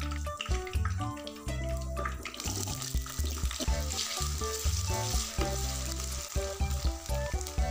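Diced potatoes sizzling in hot oil in a wok, the sizzle growing stronger about two and a half seconds in. Background music plays throughout.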